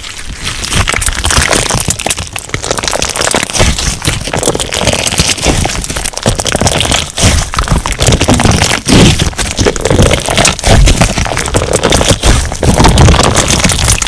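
Crunch slime being squeezed and pressed by hand, giving a dense, continuous crackling and popping.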